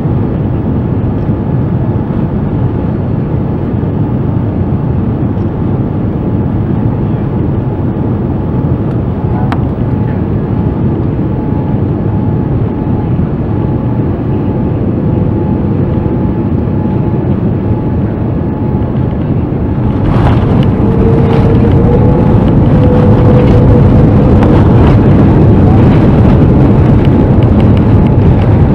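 Cabin noise in a Boeing 787-9 with Rolls-Royce Trent 1000 engines: a steady low rush. About twenty seconds in, it turns louder and harsher, with rattling and a slightly rising engine tone, typical of touchdown and reverse thrust on landing.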